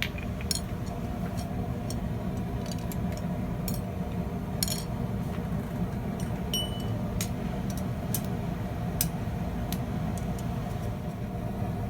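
Gas forge burner running with a steady roar, with scattered light metallic clicks and clinks.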